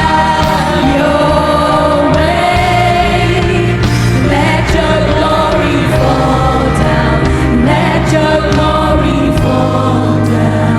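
Contemporary Christian worship music played live: a band with sustained bass and chords under several voices singing together.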